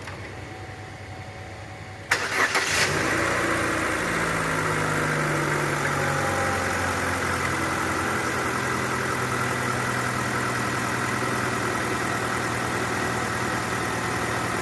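Chevrolet Onix engine started: a brief crank about two seconds in, then it catches and runs at a raised idle that settles lower after a few seconds.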